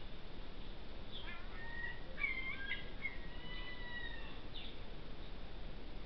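Small birds chirping and whistling: a cluster of short chirps and a few longer, slightly gliding whistled notes from about a second in until near five seconds, over a steady background hiss.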